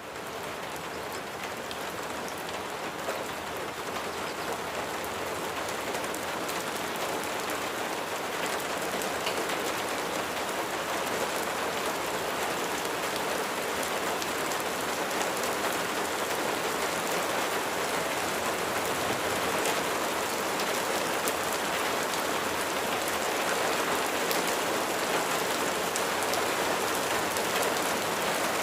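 Steady rain falling, a continuous even patter that swells slightly louder over the stretch.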